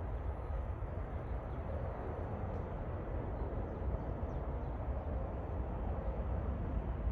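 Jet airliner engines in the distance, a steady low rumble that swells a little toward the end.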